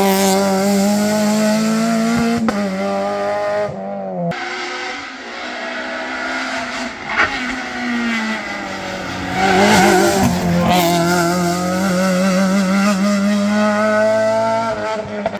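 Modern rally car engine at high revs on a special stage. The note holds high, falls away after a lift about four seconds in, then climbs back and holds high again, with tyre squeal.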